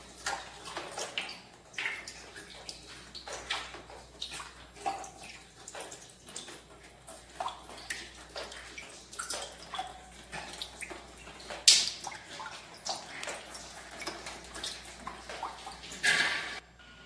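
Water dripping and splashing irregularly from leaking, corroded plumbing, a few drops a second, with one louder splash about twelve seconds in; the sound stops abruptly near the end.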